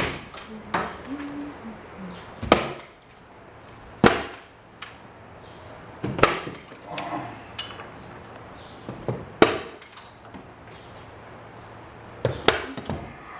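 Sharp single knocks of a hammer striking, about six in all, spaced two to three seconds apart.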